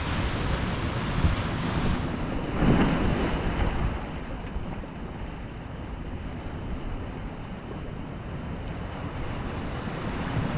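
Ocean surf: a wave breaks and surges about three seconds in, then a softer wash of water, with a low rumble of wind on the microphone throughout.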